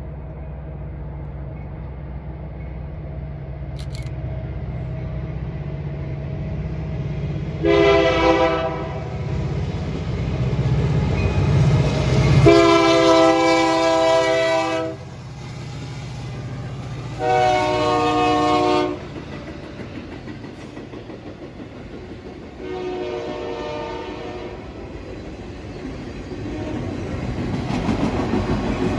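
Union Pacific diesel freight locomotive drawing near with a steady low engine rumble, sounding its multi-tone air horn four times; the second blast is the longest and loudest, and the fourth is fainter. Near the end the train's cars roll past with rising wheel-on-rail noise.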